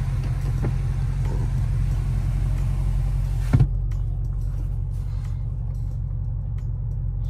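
BMW's engine idling, heard from inside the cabin: a steady low drone. There is one short thump about halfway through, after which the higher hiss falls away.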